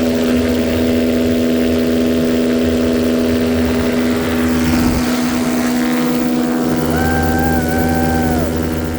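An 80cc paramotor engine and propeller running steadily, with wind hiss. Near the end a separate higher, slightly wavering tone sounds for about a second and a half.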